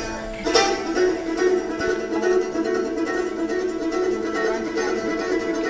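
Instrumental opening of a song played on a plucked acoustic string instrument, steady repeated notes before the singing begins.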